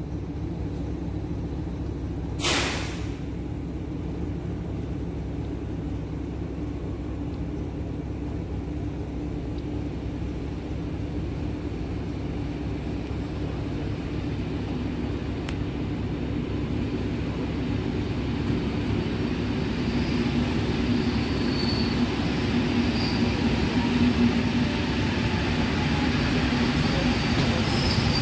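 Polregio electric multiple unit coming in along the platform: a steady rail rumble that grows louder as it draws near, with thin high wheel squeals over the last several seconds. A short sharp burst of noise sounds about two and a half seconds in.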